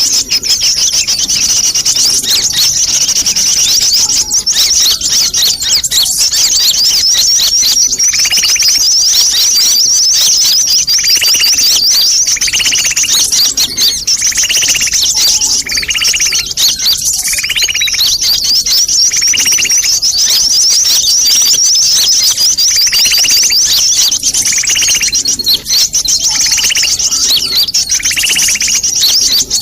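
Sunbirds (Indonesian 'kolibri') giving an agitated, noisy chatter used as a bird lure. A dense, rapid high-pitched twittering runs unbroken. From about a quarter of the way in, short lower notes join it, repeating roughly every second and a half.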